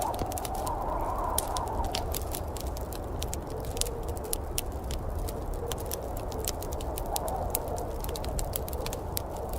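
Wood fire crackling in a fireplace, with many irregular sharp pops and snaps over a steady low rushing background.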